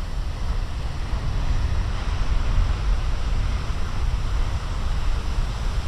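Big ocean waves breaking and surf washing in, swelling loudest about two and a half seconds in, with wind buffeting the microphone as a heavy low rumble.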